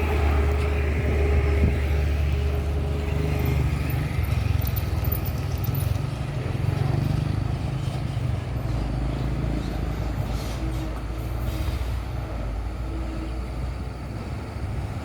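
Heavy diesel truck engine running steadily under load, a continuous low drone, with a steady higher whine over it for the first few seconds.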